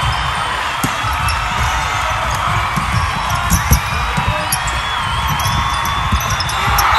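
Basketball being dribbled on a hardwood gym floor, a run of low bounces, with a few sneaker squeaks over a steady background din.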